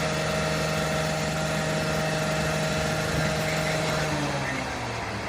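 Fire truck's diesel engine rising to a higher steady speed, holding there for about four seconds, then dropping back toward idle.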